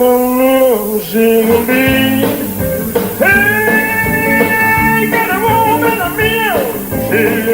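Band music with a guitar carrying long held melody notes that slide between pitches.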